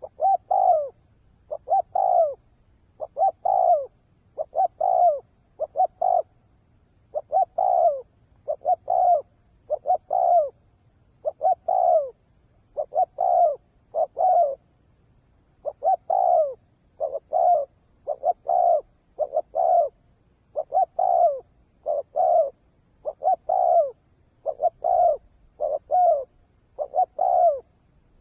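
Spotted dove cooing: short, falling coo notes in a long repeated series, about one to two a second, with no pause.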